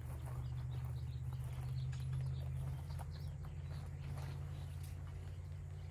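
Light rustling and tapping as an insulated hive wrap is handled and fitted around a beehive, over a steady low hum that eases slightly about halfway.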